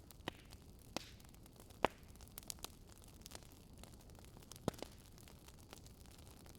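Wood fire crackling: a low steady hiss with sharp, irregular pops and snaps, the loudest about two seconds in and a quick pair just before five seconds.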